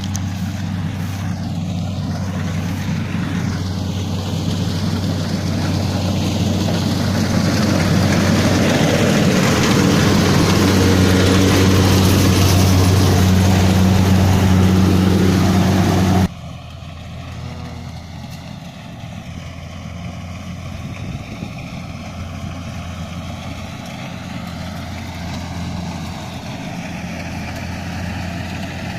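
Kubota DC70 rice combine harvester's diesel engine running with a steady drone and a dense machinery clatter, growing louder over the first half. About sixteen seconds in it drops abruptly to a quieter, steadier engine sound.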